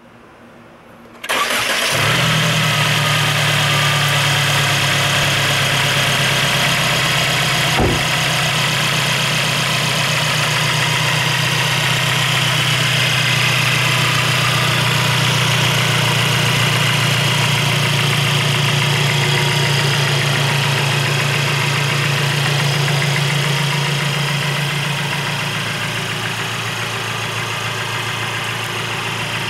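Mercedes-Benz SLC300's 2.0-litre turbocharged four-cylinder engine starting about a second in and then idling steadily, its sound easing a little lower near the end.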